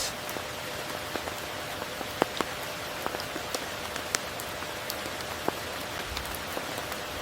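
Steady rain falling, an even hiss with individual drops striking close by every so often, a few of them sharper and louder.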